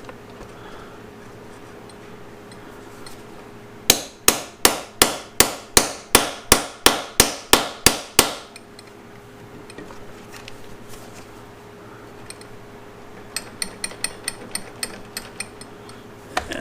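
Hammer striking metal in a steady run of about fifteen sharp blows, roughly three a second, each fading quickly. A few seconds later comes a quicker run of lighter taps.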